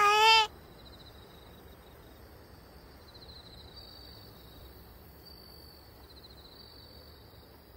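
A short cat meow right at the start, then crickets chirping in faint high trills that come and go over quiet background noise.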